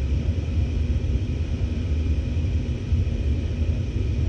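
Gas furnace running with its burners lit: a steady low rumble of the burner flames and draft inducer. The flame current is reading a little low, the sign of a dirty flame sensor that lets the burners drop out after a few seconds.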